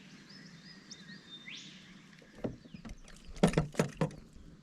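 Birds chirping for the first second and a half, then a cluster of sharp knocks and splashes around a kayak on the water, loudest between about three and a half and four seconds in.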